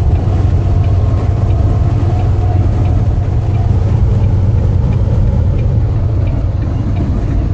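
Steady low rumble of a semi truck driving at highway speed, heard from inside the cab: engine and road noise.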